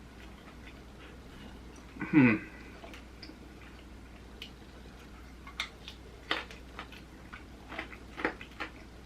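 Person eating fried chicken: a short loud sound falling in pitch about two seconds in, then scattered small clicks and smacks of chewing from about five and a half seconds on.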